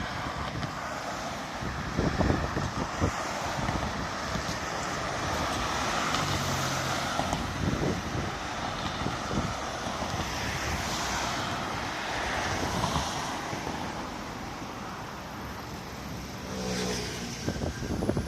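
Road traffic: cars and trucks running past with a steady low rumble, swelling as vehicles go by.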